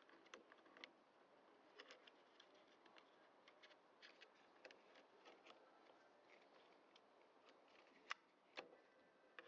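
Near silence with faint, scattered small clicks and taps of hand tools and parts, from work removing the carburettor on a Stihl MS250 chainsaw. Two sharper clicks come near the end.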